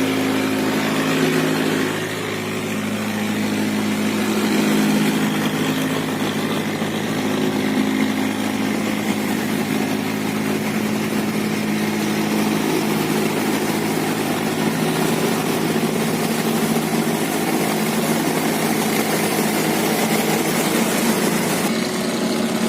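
Engines of several river boats running steadily as they pass through a sluice gate, a steady mixed hum; one of the lower engine tones drops away about four to five seconds in.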